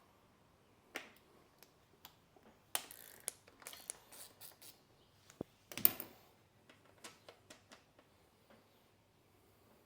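Hand tools working on metal parts, making scattered metallic clicks and knocks. There is a quick run of them a few seconds in, and one sharp clank, the loudest, about six seconds in.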